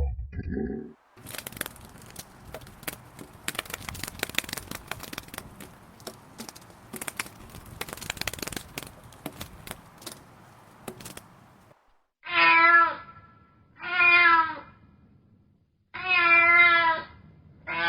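About ten seconds of irregular rustling and crackling, then a domestic cat meowing four times, each meow just under a second long, about a second or two apart.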